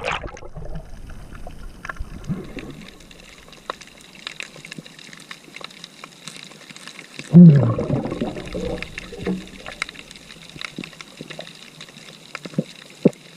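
Sea water sloshing and trickling close to the microphone, with one loud, brief low sound that drops in pitch about seven seconds in, and a few sharp clicks near the end.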